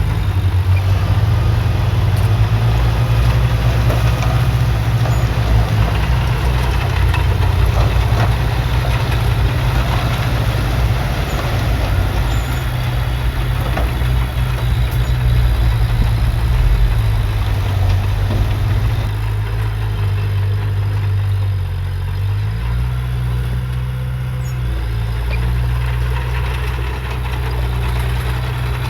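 Heavy diesel engine of earthmoving machinery running under load, its pitch stepping down and back up about two-thirds of the way through. Scattered clanks and rattles over the engine, fewer near the end.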